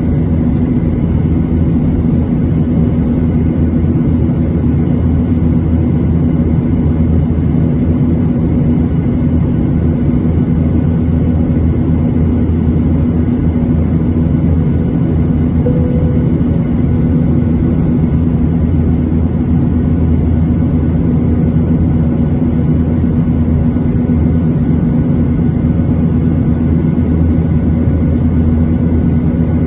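Steady, unchanging drone of a Boeing 737-800 heard inside the passenger cabin, its CFM56-7B jet engines running, with a low hum and a few faint steady tones.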